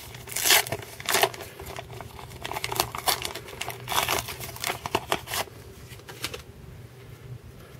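A baseball card pack wrapper being torn open and crinkled in irregular bursts, the cards inside rustling. It dies down to quiet handling after about five and a half seconds.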